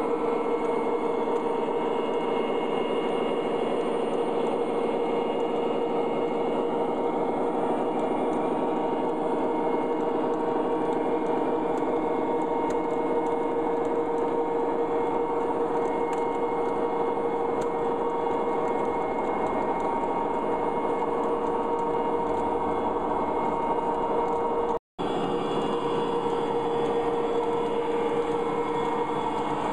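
O-scale model diesel locomotives (MTH Premier SD40-2s and an SD45) running on a layout: a steady electronic diesel engine drone from the locomotives' sound system over the rolling noise of wheels on track. The sound cuts out for an instant a little before the end, and a few falling tones follow.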